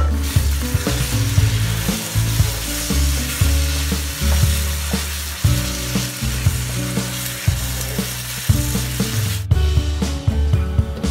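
Food frying in a wok: a steady sizzle with a spatula stirring and scraping through it. Near the end the sizzle drops away sharply as the lid goes on. Background music with a bass line runs underneath.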